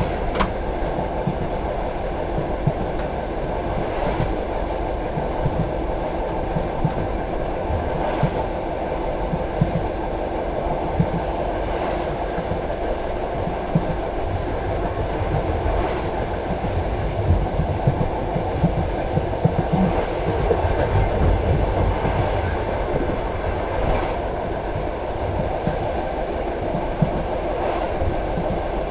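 Passenger carriage running at speed on the rails: a steady rumble of the wheels and bogies, with sharp wheel clicks over the track every few seconds.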